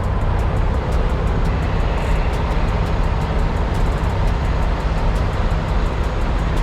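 Steady low rumble of a semi truck's diesel engine and road noise while it drives.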